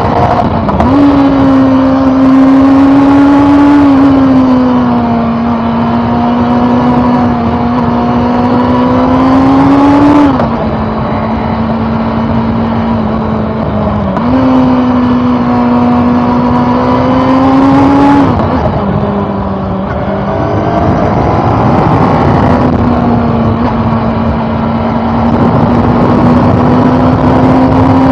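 2013 Honda CB400 Super Four Revo Hyper VTEC's inline-four engine running under way. Its note climbs gradually, falls away sharply about ten and eighteen seconds in, and steps up and down again a few times.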